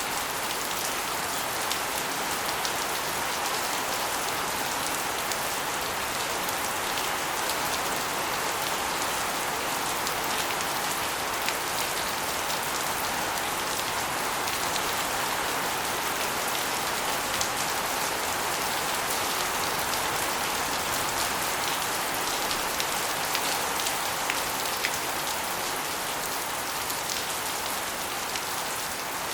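Steady rain with water spilling off an asbestos roof and splashing onto a concrete floor and walls, many small drop impacts over a constant hiss.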